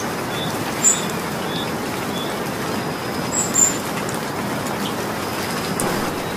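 Steady rain falling, an even hiss, with a few short high chirps: one about a second in and two close together about three and a half seconds in.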